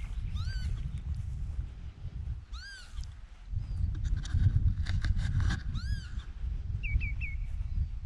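A bird's repeated alarm calls, harsh mewing cries that rise and fall, three of them about two seconds apart, then three quick short notes near the end, given by an annoyed bird that wants intruders to go away. A steady low rumble runs underneath.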